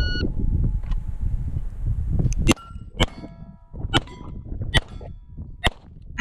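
Shot timer beeps at the start; about two and a half seconds later a Beretta 92 pistol fires five shots roughly a second apart, several followed by the clang and ring of steel targets being hit.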